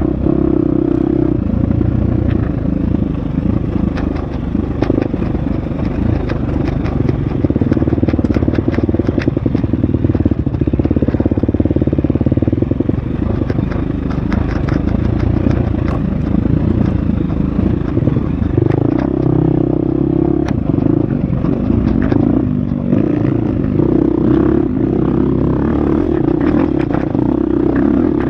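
Husqvarna FX 350 four-stroke single-cylinder dirt bike engine running under load on a trail. The engine note holds steady for long stretches and shifts with the throttle a couple of times in the second half, over a run of short clattering knocks.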